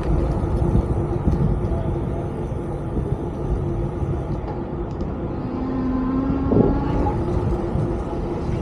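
Riding noise from an electric bike: low wind and road rumble with a steady hum, and a short held tone a little past the middle.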